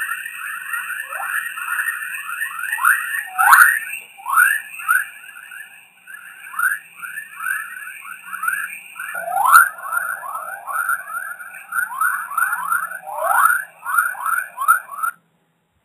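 Audio rendering of 'chorus' radio waves in Earth's Van Allen radiation belts, recorded by the Radiation Belt Storm Probes: a dense stream of quickly rising chirps, several a second, over a steady higher hiss. It cuts off shortly before the end.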